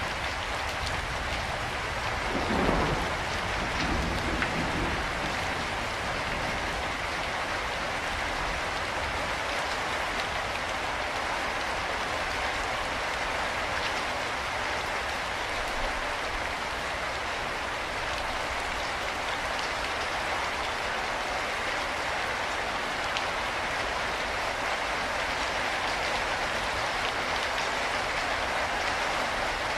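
Steady rain falling, an even constant hiss. About three seconds in, a brief lower sound stands out over the rain and fades.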